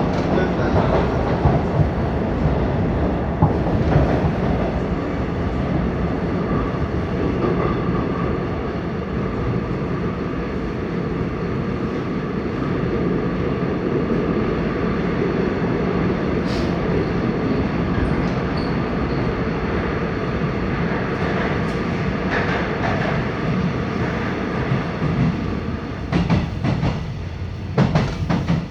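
Seoul Metro 6000 series subway train running on the rails, a steady rumble with a faint even tone above it. A quick run of clicks and knocks comes near the end.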